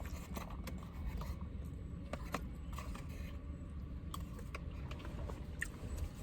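Eating sounds: scattered short clicks and scrapes of chewing and handling food, over a low steady hum.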